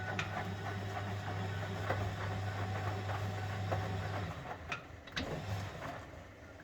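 1971 Constructa Garant 491 washing machine running a wash: a steady hum with scattered knocks and clicks, and the hum cuts off about four seconds in.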